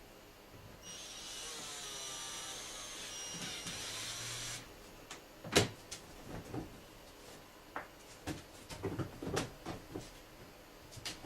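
A small electric tool motor whirs steadily for about three and a half seconds with a high whine that shifts pitch once, then stops; after it come scattered knocks and clicks of metal parts being handled.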